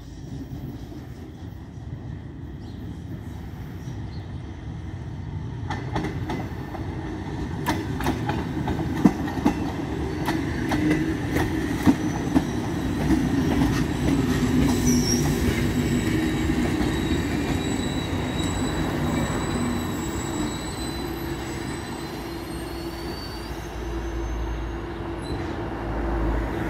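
Electric regional multiple unit of the Porrentruy–Bonfol railway arriving at a station, growing louder as it approaches. Its wheels click over rail joints, then a thin high-pitched squeal of wheels and brakes runs as it slows to a stop, with a steady low hum near the end.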